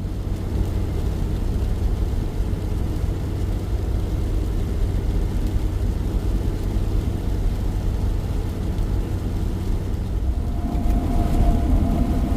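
Steady engine and road rumble of a truck being driven, heard from inside the cab. Near the end a steadier engine note comes in and it gets a little louder.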